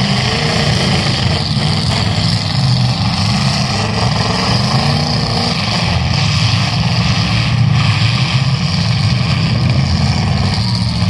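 Several demolition derby cars' engines running and revving together, loud and steady, with rising and falling pitch as drivers spin their wheels in the mud.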